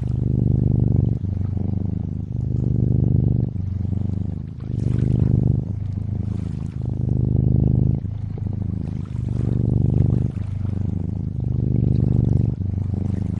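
Cat purring in a steady rhythm, swelling and easing with each breath about every second or so, over faint gently moving lake water.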